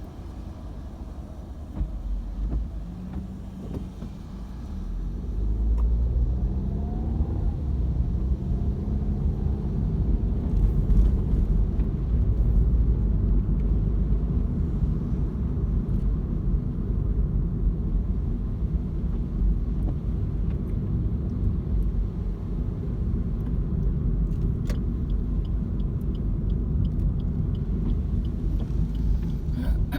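A car heard from inside the cabin, engine and road rumble. A few seconds in, the engine note rises as the car accelerates, then it settles into a steady rumble of cruising on a wet road.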